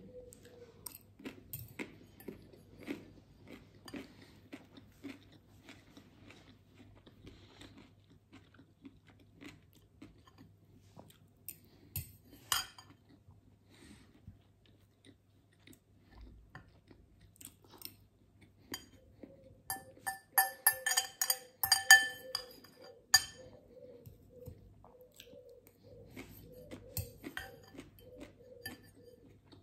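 Close-up chewing of a mouthful of food, with small wet mouth clicks throughout. A sharp clink comes about twelve seconds in, and about two-thirds of the way through there is a quick run of ringing clinks as a metal utensil scrapes and taps a glass bowl.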